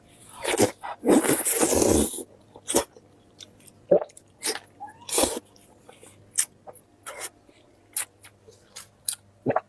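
A person eating at close range. There is a loud, breathy, partly voiced vocal noise about a second in that lasts roughly two seconds, then scattered short wet clicks and smacks of chewing.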